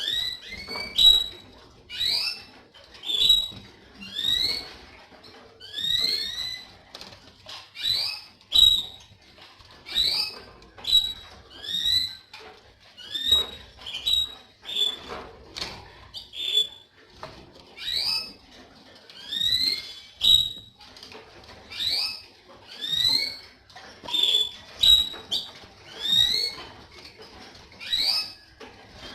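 Canary giving short, rising whistled call notes over and over, about one a second, sometimes two close together.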